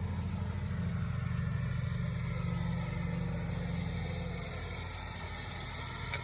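An engine idling steadily, a low, even rumble that eases off a little about two-thirds of the way through.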